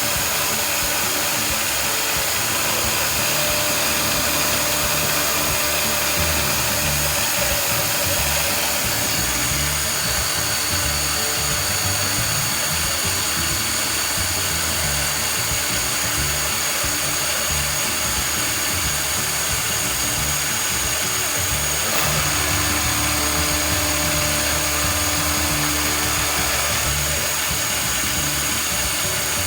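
CNC machine spindle milling POM plastic: a steady high whine and continuous cutting noise, with background music.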